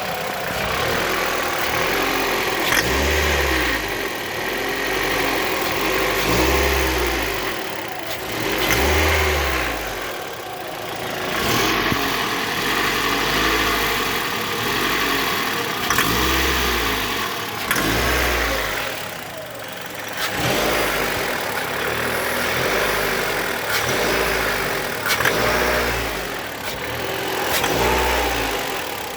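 Mitsubishi 4B10 1.8-litre four-cylinder engine idling and repeatedly revved with short throttle blips, about nine times, each rise and fall in pitch bringing a deep rumble. This is the extraneous rumble or rattle under throttle that the owner is trying to track down.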